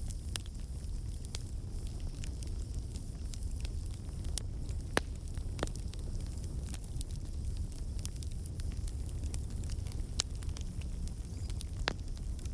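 Campfire of burning logs crackling and popping: irregular sharp snaps over a low steady rumble and hiss of the flames. A few louder pops stand out, about five seconds in, around ten seconds and near the end.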